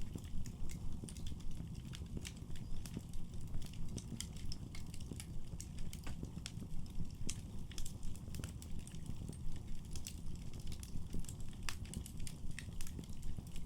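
Wood fire burning in a fireplace, with frequent sharp, irregular crackles and pops over a steady low rumble of the flames.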